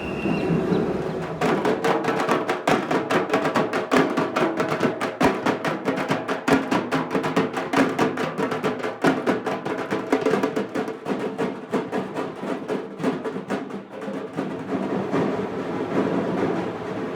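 Drums played in fast, dense strokes, starting about a second and a half in.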